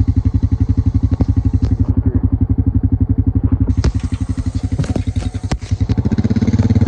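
Small vehicle engine idling with a steady, rapid chugging pulse. A few sharp clicks come about four to six seconds in, and the engine note shifts slightly near the end.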